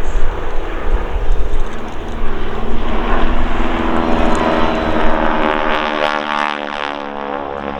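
Propeller-driven display biplanes flying past with engines running under power. The engine note drops in pitch as they pass, about five seconds in, then eases off.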